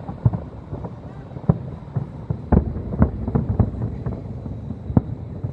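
Fireworks going off in a rapid, irregular run of low booms and pops over a steady rumble. The loudest bangs come about halfway through.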